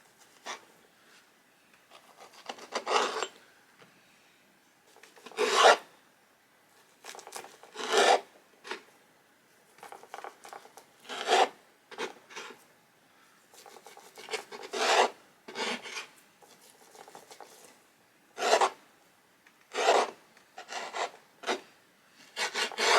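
Short scraping strokes on the edge of a flint stone knife as it is resharpened, about a dozen of them spaced irregularly a second or two apart.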